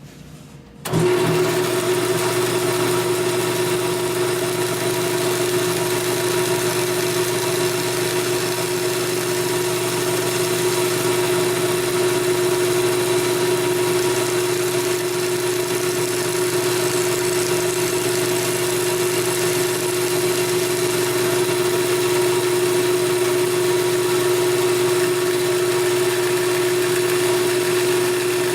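Bandsaw switched on about a second in, its motor coming up to speed and then running steadily with one strong, even tone.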